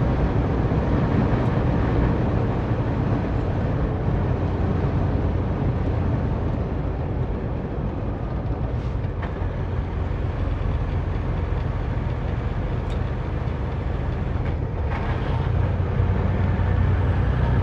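Semi-truck driving at road speed: a steady low rumble of engine and road noise, heard from inside the cab.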